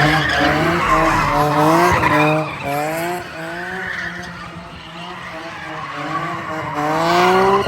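A car engine revving hard under throttle, its pitch climbing in a string of short repeated rises, with tyres skidding. A last rev builds loudest near the end and cuts off suddenly.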